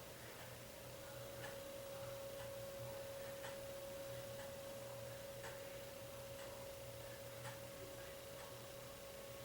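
Faint steady electrical hum with a soft tick about once a second.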